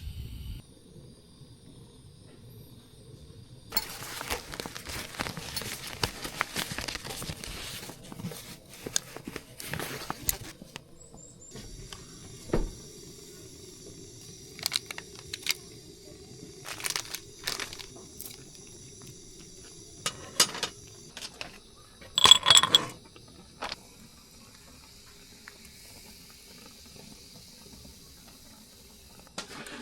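Clinks and knocks of dishes and utensils with a few seconds of water-like noise early on. From about a third of the way in, insects keep up a steady high shrilling behind them.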